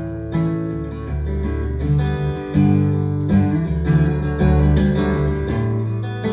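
Instrumental intro of a song played live: strummed guitar chords over low bass notes that change every second or so.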